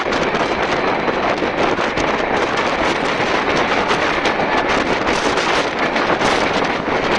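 Express train running at speed: a steady rush of air and running noise, with wind buffeting the microphone at the carriage window.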